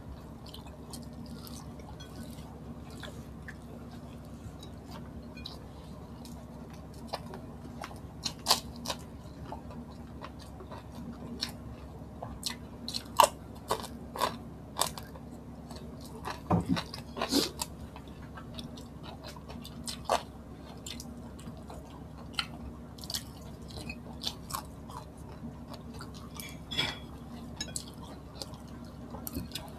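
Close-miked chewing and crunching as fried tilapia and pork sisig with rice are eaten with the hands. The crunches and mouth sounds come irregularly and are busiest around the middle.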